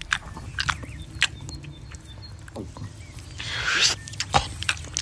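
Close-miked chewing of grilled steak: a run of short, wet mouth clicks and smacks, with a brief louder squelchy rustle about three and a half seconds in.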